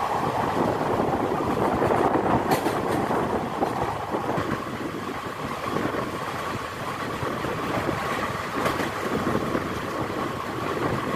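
Coaches of an express train running past at speed on the adjacent track: a steady rushing rumble of steel wheels on rails, with a couple of sharp clicks.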